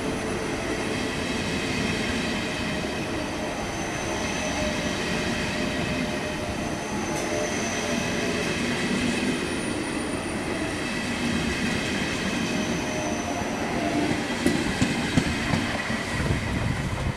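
Two coupled ICE 2 high-speed trainsets rolling slowly through a station at about 30 km/h, held to that speed by a restriction on worn-out track. The wheels on the rails make a steady rumble with faint high whines. A few sharp clicks come near the end as the last cars pass.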